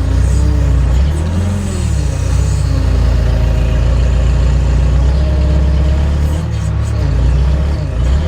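JCB backhoe loader's diesel engine running hard under hydraulic load, its pitch dipping and rising about a second in and again near the end as the boom and bucket push the stuck machine out of boggy ground.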